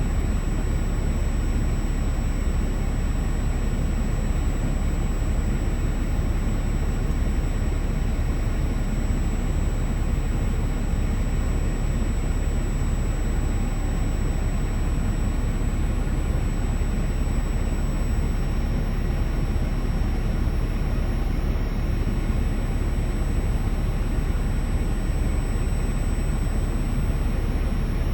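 Steady mechanical roar of a truck wash in operation around a semi truck, heavy in the low end with a constant high-pitched whine over it.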